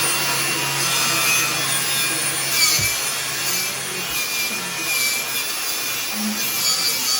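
Wire brush scrubbing rust off a steel motorcycle swing arm: a steady, loud, hissing scrape with a low hum in the first few seconds.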